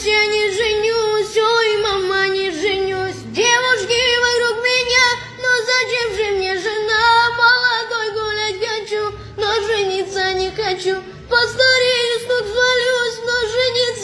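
A high-pitched voice singing a wavering melody in short phrases, with no clear words.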